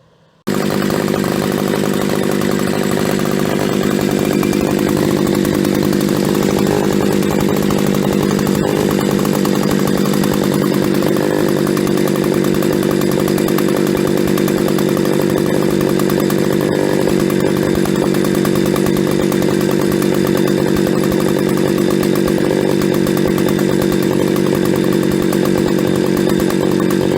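Echo-built John Deere 60V two-stroke chainsaw running steadily at a constant speed after its clogged carburettor was cleaned out. It starts abruptly about half a second in.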